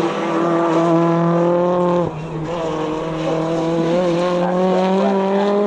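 British Touring Car Championship cars' 2.0-litre turbocharged four-cylinder engines running at high revs, held steady, with a gear change about two seconds in, after which the engine note climbs slowly again.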